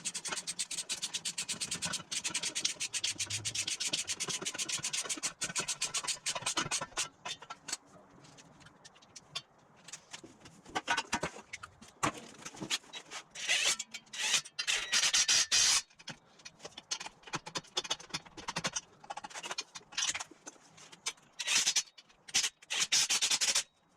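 Ratchet spanner clicking rapidly as nuts on an exhaust V-band clamp are run up. After about seven seconds it gives way to slower, scattered clicks and short scraping bursts of tools and metal parts being handled.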